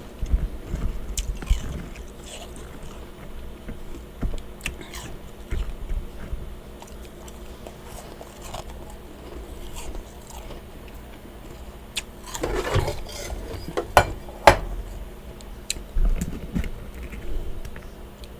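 A person chewing and crunching mouthfuls of powdery freezer frost, in irregular crunches with a louder run of crunching about two-thirds of the way through. A steady low hum runs underneath.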